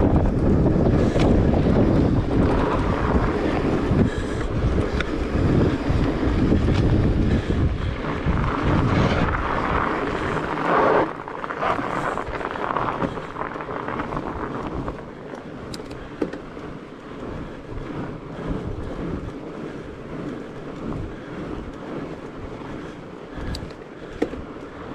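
Wind buffeting the microphone and tyre noise from a fat bike being ridden, loud for the first eleven seconds or so, then dropping to a quieter rolling hiss with a few light clicks.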